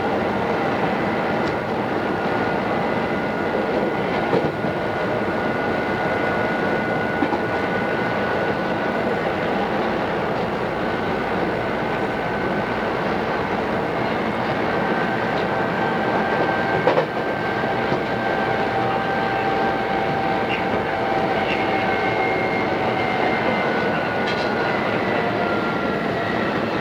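Odakyu 2600 series electric train running at speed, heard from inside the car: a steady rumble of wheels on rail with a held motor and gear whine whose pitch drifts slowly and sinks a little near the end, and one sharp knock about 17 seconds in.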